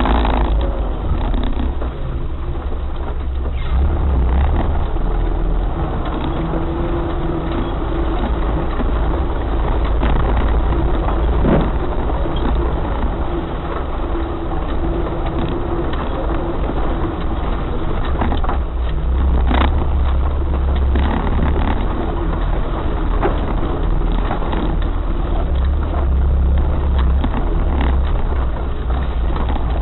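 Off-road 4x4 vehicle driving, its engine running with a steady heavy low rumble and occasional brief knocks.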